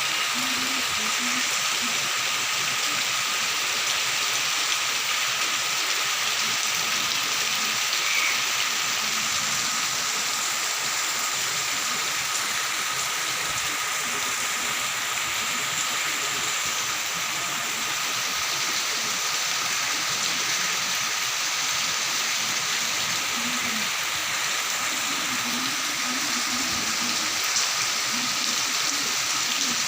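Rain falling steadily in a forest, an even hiss that stays level throughout. A faint, steady high tone runs underneath.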